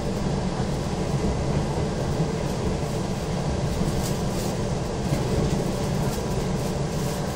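Izu Kyuko 2100-series electric train heard from inside the carriage, running along the line with a steady low rumble. A few faint short high clicks come about four seconds in.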